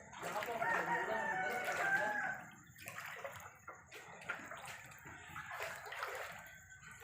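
A rooster crowing once, a call about two seconds long, followed by quieter scattered sounds.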